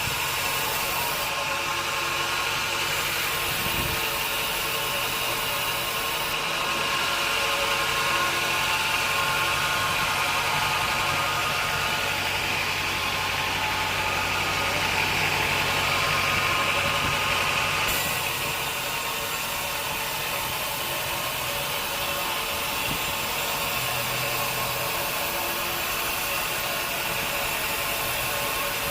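Sawmill machinery running steadily, with a hum of several steady tones. It grows a little louder for about twelve seconds, then drops back suddenly about two-thirds of the way through and keeps running.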